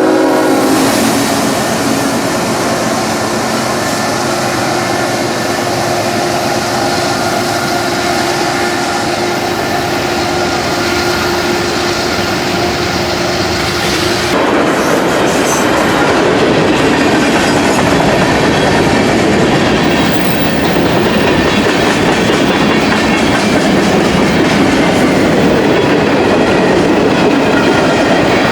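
Freight cars of a manifest freight train rolling past close by, with steady rumbling and clatter of wheels over rail joints. The tail of a horn blast cuts off about a second in, and a thin steady whine rides over the rumble until about halfway, when the rolling sound turns rougher and slightly louder.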